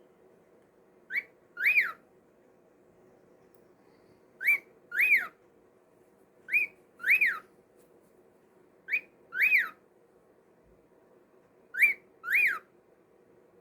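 Cockatiel calling in two-note whistles, a short rising note then a longer rise-and-fall note, repeated five times about every two and a half seconds.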